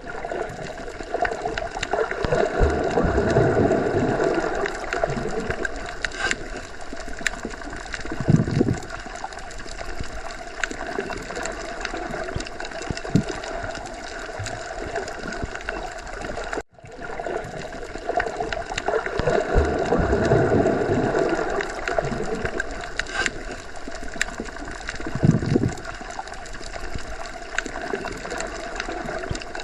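Looped underwater ocean ambience: muffled water gurgling that swells slowly in level, with a short low rush twice. The loop restarts after a momentary dropout partway through.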